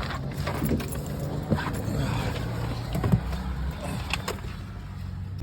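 Car engine running at a steady low hum, heard from inside the cabin, with a few light clicks and knocks over it.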